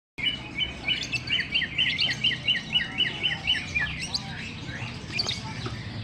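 Lovebird chirping: a fast, even run of short, high chirps, about four a second, for the first three and a half seconds, then scattered, softer chirps.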